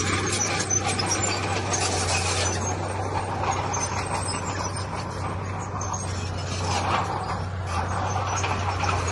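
Heavy diesel earthmoving machinery running, a steady low engine drone with irregular rattling and scraping over it.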